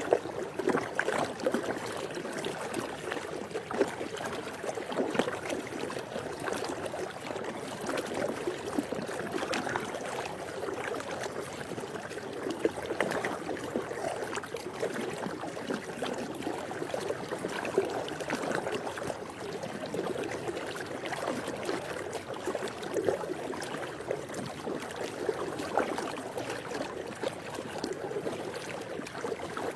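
Steady rush of swimming-pool water, with small irregular splashes throughout.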